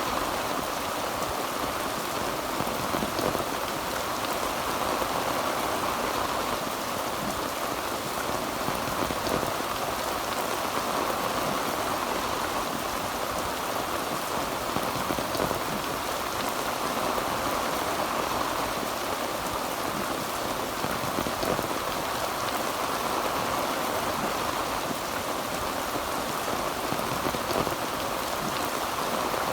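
Heavy rain falling steadily on a tin roof: a dense, even patter with scattered single drop ticks and no thunder.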